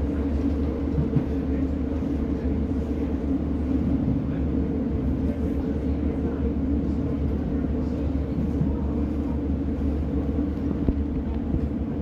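Steady rumble inside a moving Class 150 diesel multiple unit: the underfloor diesel engine running at a constant note, mixed with wheel-on-rail noise.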